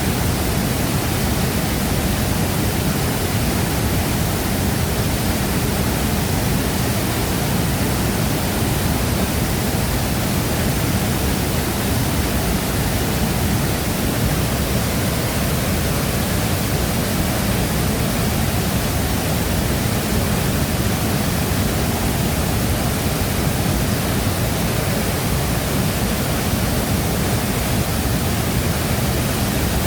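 Shifen Waterfall pouring in a steady, unbroken rush of water noise, heaviest in the low end.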